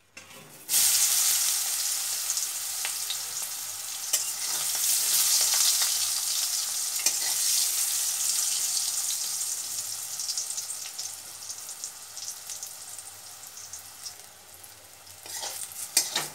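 Salted, turmeric-coated brinjal (eggplant) pieces hitting hot mustard oil in a stainless steel wok: the sizzle starts suddenly about a second in and slowly dies down as they fry, with clicks and scrapes of a metal spatula turning them.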